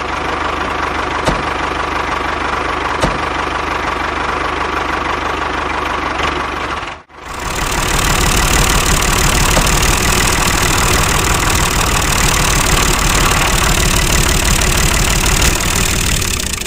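A small engine or motor running steadily, heard in two stretches with a brief cut about seven seconds in.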